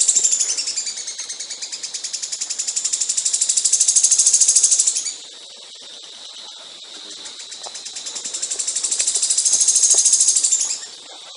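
Songbird singing long, very rapid high-pitched trills, twice, each swelling and then fading, the first cutting off about five seconds in and the second near the end.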